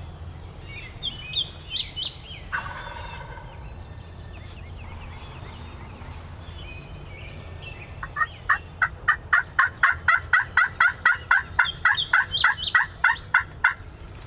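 Wild turkeys calling: a quick burst of rattling notes about a second in, then, in the second half, a long, evenly spaced run of calls at about four a second.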